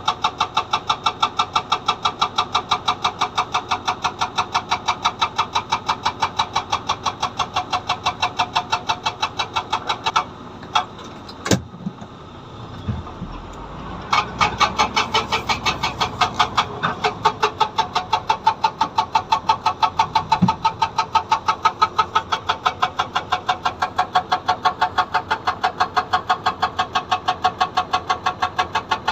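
Hydraulic rock breaker (SAGA 288H on a Komatsu PC200 excavator) hammering stone in a rapid, even rhythm of blows. It stops for about four seconds in the middle, with one sharp knock and the excavator's engine heard alone, then starts hammering again.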